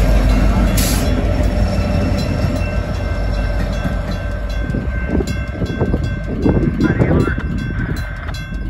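A long, loaded coal train rolling slowly past, its wheels rumbling and clanking on the rails. The rumble gradually fades toward the end.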